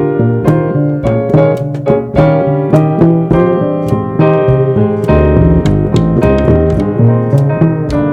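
Jazz piano trio playing: keyboard with a piano sound carrying chords and melody, double bass, and drums keeping time with regular strikes about twice a second. The bass notes come through more strongly about five seconds in.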